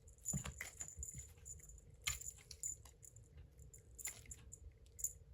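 Scattered light clicks and small rattling taps, irregular and several close together at times, over a faint steady hum.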